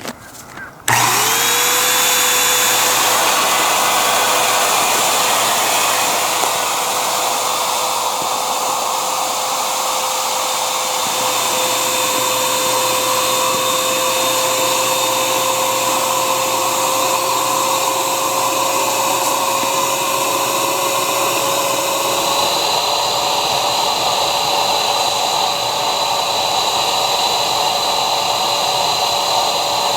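Electric air pump inflating the air tent. It switches on about a second in and runs with a steady whirring motor tone that creeps slightly higher in pitch as it goes.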